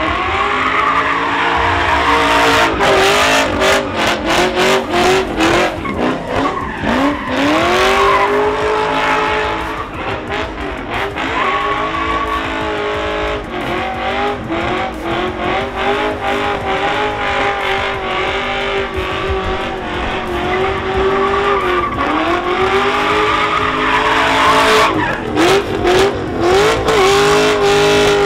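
A car doing donuts in a burnout pit: its engine revs up and down again and again under continuous tire squeal.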